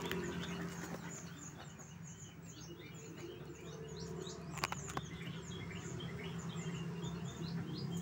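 Dense, irregular high-pitched chirping: many short, falling notes from small animals, overlapping over a low steady hum, with two sharp clicks near the middle.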